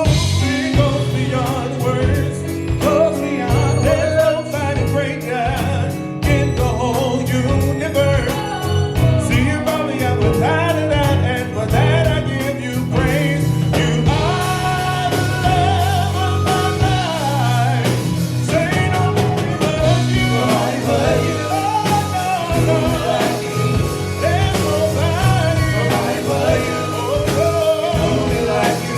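Gospel quartet singing with a live band, with sung vocal lines over a steady bass and a driving beat.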